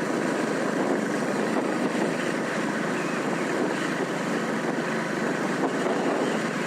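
Royal Enfield Classic 350's single-cylinder engine running steadily under way, mixed with wind rushing over the microphone.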